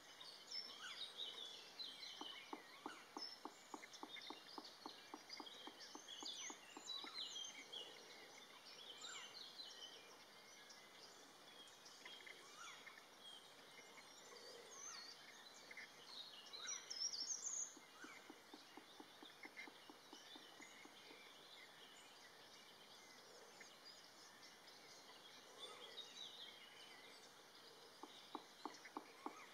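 Faint chorus of small birds chirping and calling, with one louder flurry of calls a little past halfway. Three times, a run of rapid, evenly spaced low taps or pulses, about eight a second, lasts a couple of seconds: near the start, about two-thirds through, and near the end.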